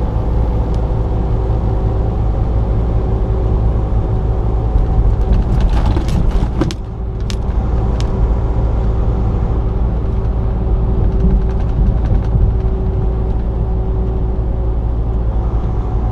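Semi-truck engine and road noise heard inside the cab: a steady deep drone and rumble. A cluster of sharp clicks and knocks comes about five to seven seconds in.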